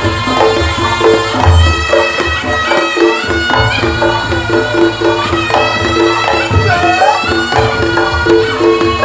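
Reog Ponorogo gamelan music: a reedy slompret (shawm) plays a wavering, bending melody over drums and small gongs repeating a steady pattern.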